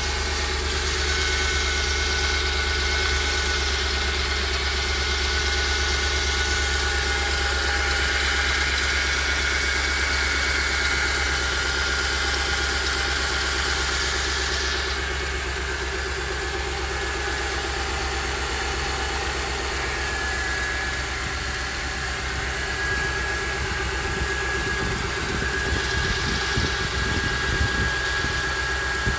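Ford F-150's 4.6-litre V8 idling steadily from a cold start. At this stage it sounds fairly normal: the knock from the left side of the engine only comes in once it warms up.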